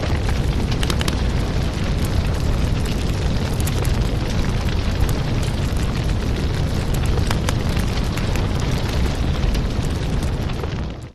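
Fireplace crackling: a steady low roar of burning logs with scattered sharp snaps and pops, dropping away abruptly at the very end.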